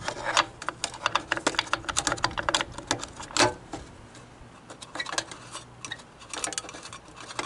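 Air filter and its cover being worked onto a Snapper mower engine by hand: a rapid run of small plastic and metal clicks and taps, thickest in the first few seconds and then sparser.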